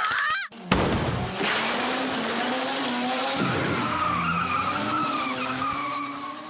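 Cartoon sound effect of a supercar pulling away. A sudden loud start comes just under a second in, then a steady engine and tyre-skid noise that fades out near the end.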